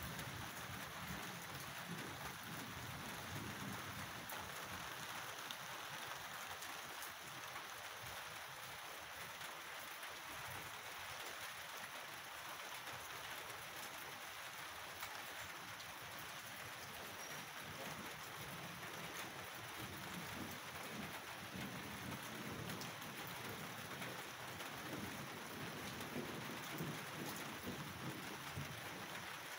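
Steady rain falling, with low rumbles of distant thunder near the start and again in the last third.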